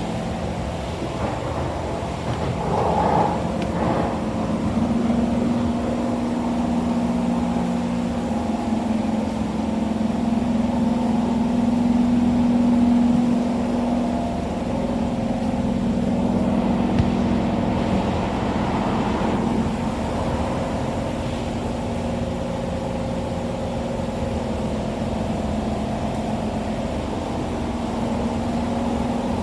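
Inside an SMRT C151 metro train running between stations: a steady rumble of wheels on rail under a droning hum made of several held tones, which shift slightly in pitch along the way.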